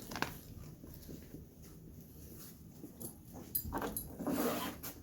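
A dog moving about close by, with light scuffs and clicks, and a louder scuffling noise from about three and a half seconds in.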